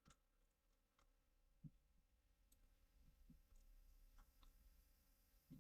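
Near silence with a few faint, scattered mouse clicks.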